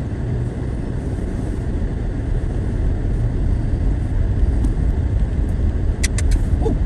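Steady low rumble of a car driving on a snow-covered road, heard from inside the cabin. Near the end comes a quick run of three or four sharp clicks.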